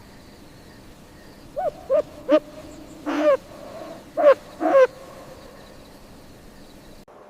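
Owl hooting: about six short hoots over some three seconds, the fourth drawn out longer than the others.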